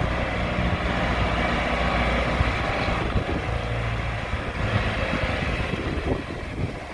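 John Deere 410-D backhoe loader's diesel engine running steadily.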